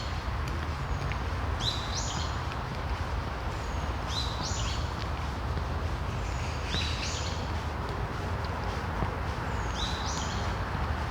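A songbird repeating the same short call four times, about every two and a half seconds; each call is a quick rising note followed by a higher buzzy one. A steady low background hum runs under it.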